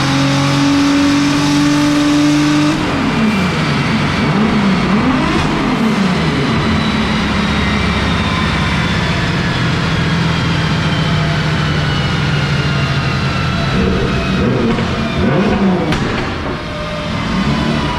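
Audi B5 S4 drift car's engine revving: held at steady revs at first, then blipped up and down several times, steadier through the middle, with more quick revs near the end.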